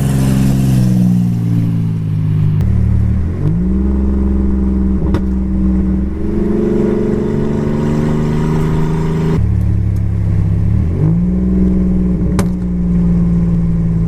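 Car engine running under way, with steady revs broken twice. Each time the revs fall sharply and then climb back up, about three seconds in and again about eleven seconds in, as with gear changes or easing off and accelerating again.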